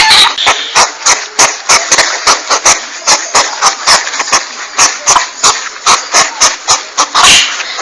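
Porcupine calls: a fast string of short, sharp calls, about four a second, with a longer call near the end.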